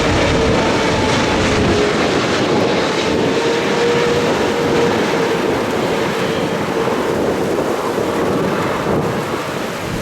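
Wide-body jet airliner on approach to land, its engines making a loud, steady rush of noise with a humming tone that wavers slightly.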